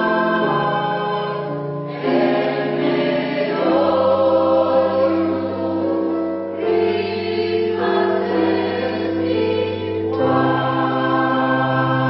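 Mixed polyphonic choir singing a cappella, sustained chords that change every second or two.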